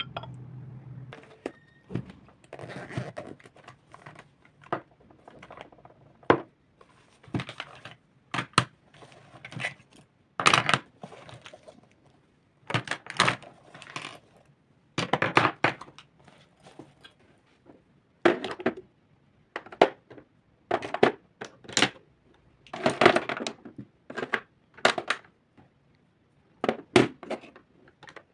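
Small objects being handled and set down on a hard surface: a long series of irregular knocks and clatters. A low steady hum stops about a second in.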